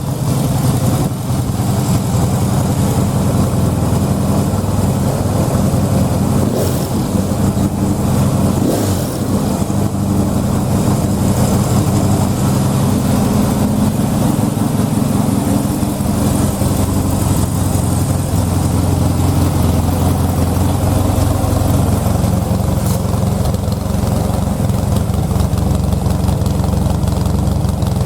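Yamaha XS1B 650 cc air-cooled parallel-twin motorcycle engine running steadily at around idle, freshly rebuilt and just started for the first time after its overhaul.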